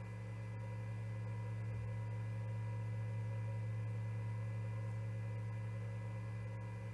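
Steady electrical hum from a nest camera's audio feed: a low drone with faint, high, steady tones over a light hiss, unchanging throughout.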